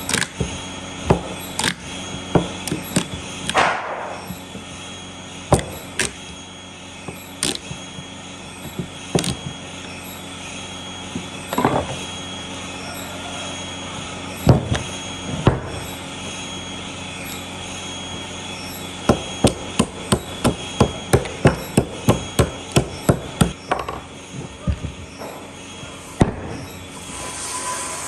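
Hammering on wood: scattered sharp knocks, then a fast run of about four knocks a second lasting a few seconds, with a steady hum underneath.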